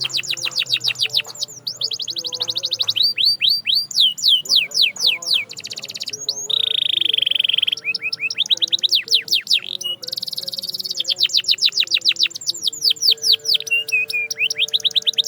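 Domestic canary singing: fast trills of rapidly repeated downward-sweeping notes. About six and a half seconds in, it holds one steady note for about a second, then goes back to trilling.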